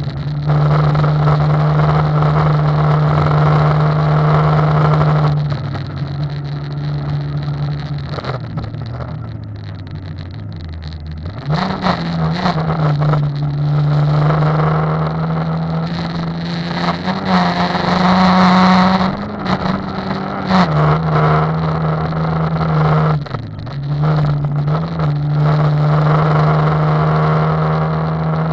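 Rally car engine heard from inside the cabin, driven at speed on a gravel road, over steady tyre noise from the gravel. The engine holds steady revs, then eases off a few seconds in so its pitch sinks for several seconds. It picks up again, runs highest a little past the middle, and dips briefly near the end.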